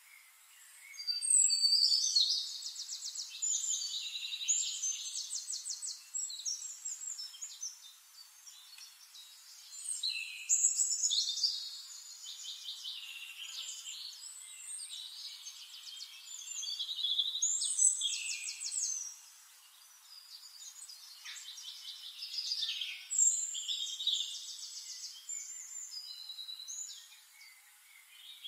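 Songbirds singing: quick trills and warbled phrases, with louder bursts of song every several seconds and softer song between.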